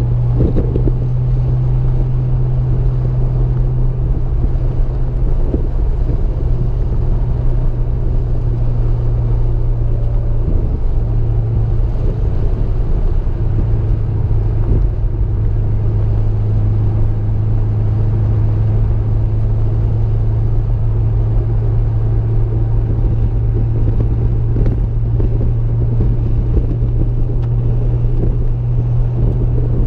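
Car engine running at a steady, unchanging pitch with a low rumble, with no revving or shifting.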